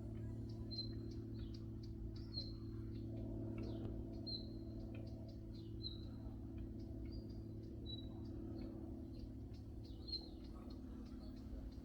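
A small bird chirping: short, high single calls repeated about every one and a half to two seconds, over a steady low background hum.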